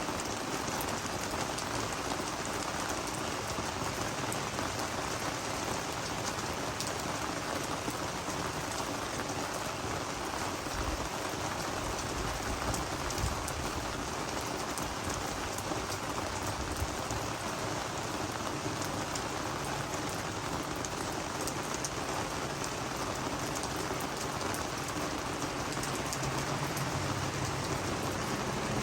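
Steady rain falling on garden vegetables and flowers: an even hiss full of small drop ticks.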